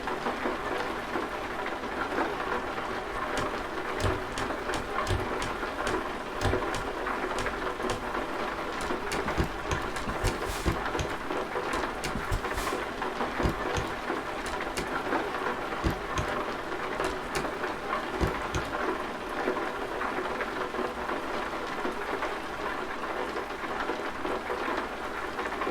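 Steady rain with many separate drops striking close by.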